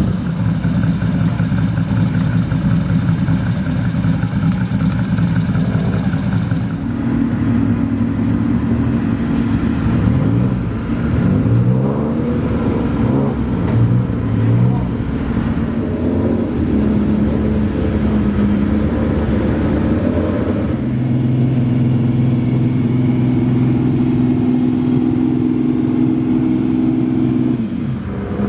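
Ferrari 250 GTO's three-litre V12 engine running hard on track, holding steady notes at first, then revs rising and falling repeatedly through gear changes in the middle, and holding a steady high note again near the end.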